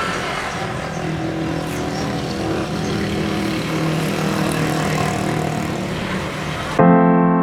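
A motor running steadily, a steady hum under a noisy hiss; piano music cuts in suddenly near the end.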